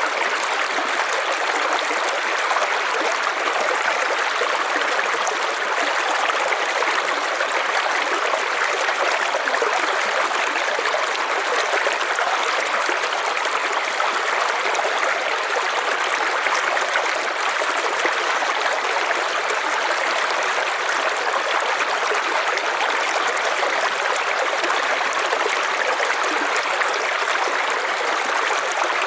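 River water flowing in a steady, even rush, strongest in the mid tones with little deep rumble.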